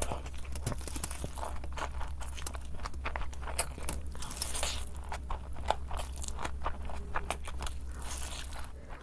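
Close-miked crunching and chewing of food, a dense run of quick crisp crunches, over a low steady hum.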